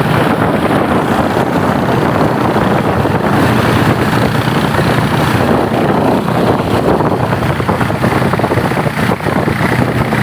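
A motorboat's engine running steadily under way, a constant low drone with wind rushing over the microphone.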